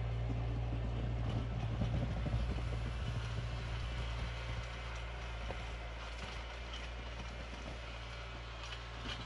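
Vehicle engine running with a steady low hum, slowly growing quieter.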